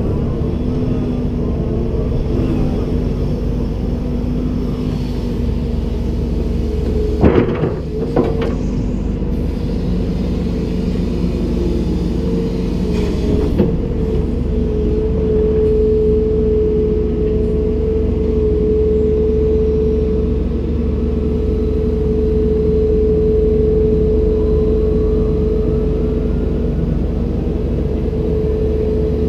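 Komatsu PC290-10 excavator's diesel engine and hydraulics running steadily under load, a low rumble with a steady whine over it. It is broken by a few sharp knocks: two about 7 and 8 seconds in, and another around 13 seconds.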